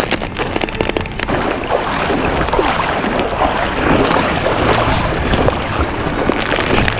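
Water splashing and sloshing around a small homemade boat of taped plastic water bottles that is riding low in the water, with wind buffeting the microphone.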